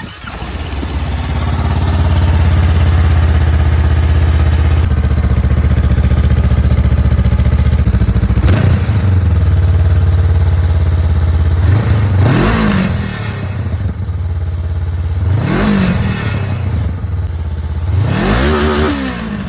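2022 Honda CB500F's 471 cc parallel-twin engine through its stock exhaust, running steadily at first, then pulling up in pitch three times, a few seconds apart, in the second half.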